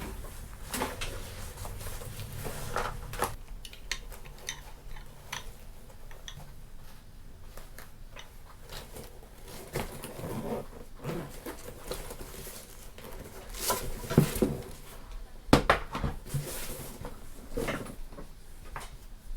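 Small hard camera-mount parts being handled: irregular light clicks, taps and clatter, with a few louder sharp knocks about two-thirds of the way through.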